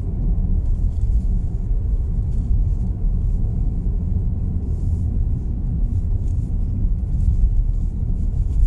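Steady low rumble of car road noise, heard from inside the moving car.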